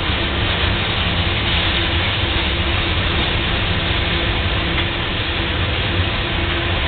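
Freight train of tank cars rolling slowly past, a steady noise of steel wheels running on the rails without distinct rail-joint clicks.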